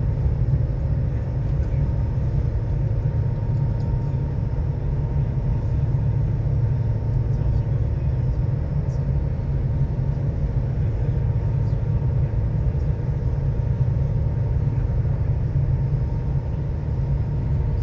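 Steady low rumble aboard a passenger ferry under way, with a faint even hum above it and no pauses or sudden sounds.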